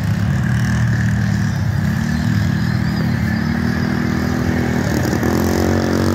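Small mini bike engine running steadily under throttle. A second engine note joins it about four and a half seconds in.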